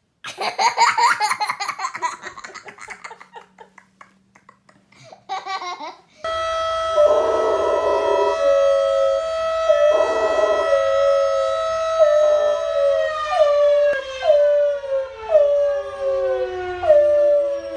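A siren-like wail holding one steady pitch for several seconds, then winding down. A dog howls along over it, in short falling howls near the end. Before the wail, a burst of yelping, howl-like calls.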